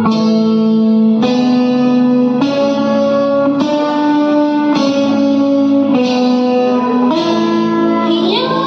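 Instrumental song intro: effects-laden guitar chords, a new chord struck about every 1.2 seconds and left ringing. A gliding tone enters near the end.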